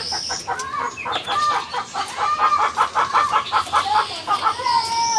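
Chicken clucking: a run of quick, repeated clucks, about four a second, starting about a second in and lasting some three seconds.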